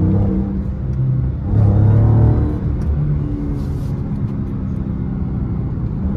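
Dodge V8 engine heard from inside the cabin while driving. It revs up about one and a half seconds in, louder for under a second, then settles back to steady cruising.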